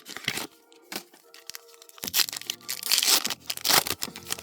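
Foil booster-pack wrapper being crinkled and torn open: short crackly bursts at first, then a longer stretch of tearing and crinkling from about two seconds in.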